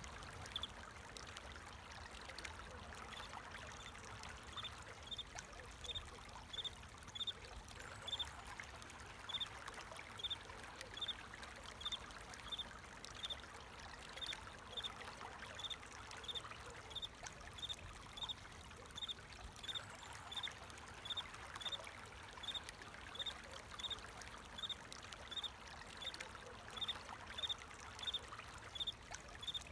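Water trickling and flowing steadily, with a cricket chirping in short, evenly spaced pulses, about one and a half chirps a second.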